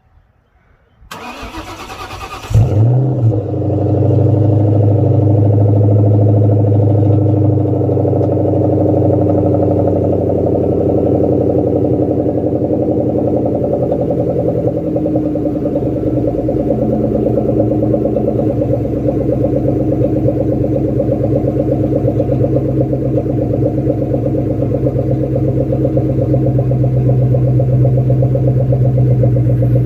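1998 Ford Mustang SVT Cobra's 4.6-litre DOHC V8 cold-started: the starter cranks for about a second and a half, the engine catches with a brief flare, then settles into a steady idle.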